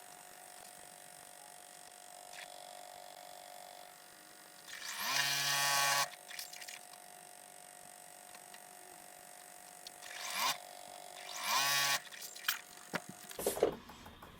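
Electric sewing machine stitching in three short bursts, the motor spinning up quickly to a steady pitch each time, the first burst about a second long. A faint steady hum runs underneath, and a few sharp clicks come near the end.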